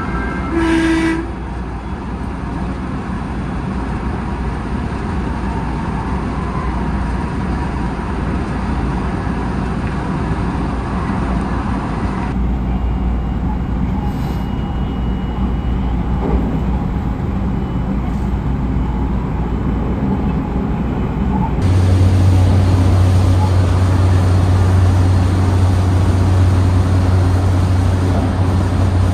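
Running noise of an electric local train heard from on board: a steady rumble of wheels on rails and motor hum, which changes character abruptly twice, about 12 and 22 seconds in. About a second in there is one brief tone.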